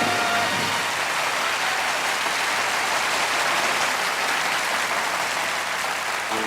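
Concert audience applauding at the end of a song, with the band's last held chord dying away about half a second in and the next song's music starting right at the end.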